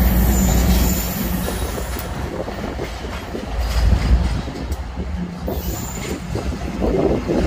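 Freight train rolling past: the rumble and clatter of the cars' wheels on the rails, with a low engine hum that fades about a second in.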